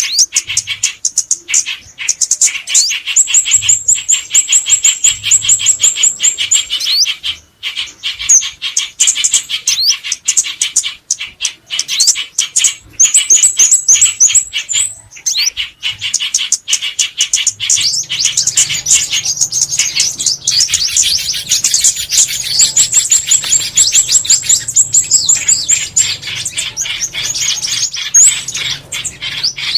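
Dense, overlapping chirps and rapid high trills of several small songbirds, a mixed lure-call recording of white-eye, bulbul and sunbird calls used to draw birds to glue traps.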